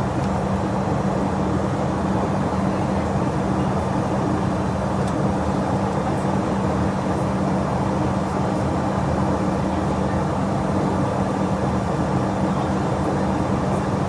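Steady jet engine and airflow noise heard inside an airliner cabin, with a constant low hum that does not change.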